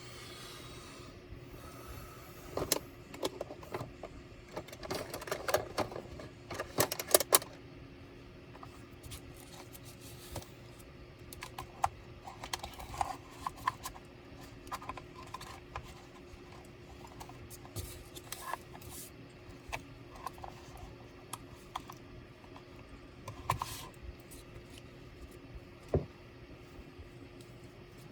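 Small clicks, taps and rattles of tools and parts being handled while a laptop is taken apart, busiest in a cluster of loud taps early on and with a single sharp knock near the end. A steady faint hum runs underneath.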